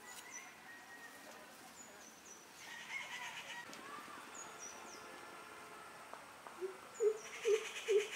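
Birds calling: short high chirps that slide down in pitch, repeated every second or two, with a buzzy trill now and then. Near the end comes a run of five short, low, evenly spaced calls, which are the loudest sound.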